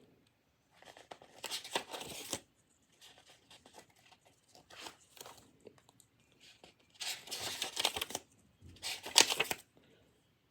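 Paper rustling and crinkling in bursts as a notebook and its pages are handled, three louder bouts of rustle with faint scratching between.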